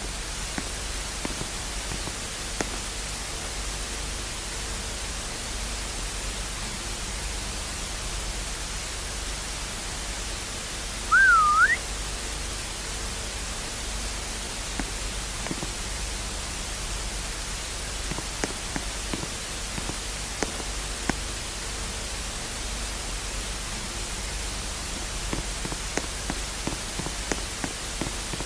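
Steady static hiss with a low hum and faint scattered clicks. About eleven seconds in, a brief, louder whistle sounds: a short tone that wavers and then slides sharply upward.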